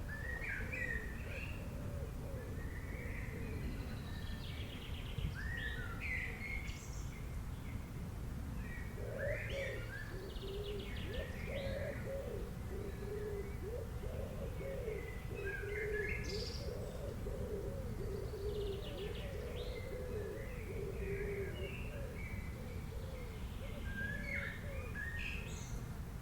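Several birds calling: short high chirps and whistled phrases every few seconds, with a lower, continuous warbling chatter through the middle stretch and a steady low rumble underneath.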